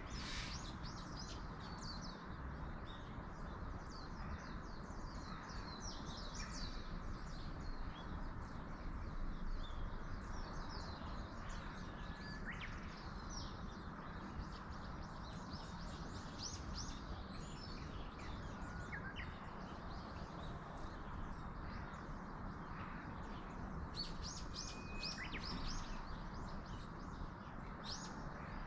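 Small birds chirping in short high calls, bunched in several bursts, over a steady rush of wind in the trees.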